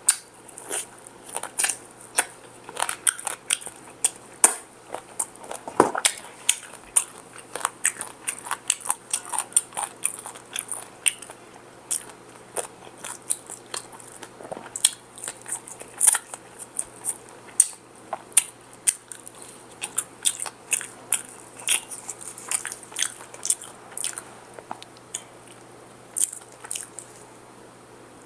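Close-miked eating of fried chicken: crispy breading crunching under bites and chewing, with many irregular crackles.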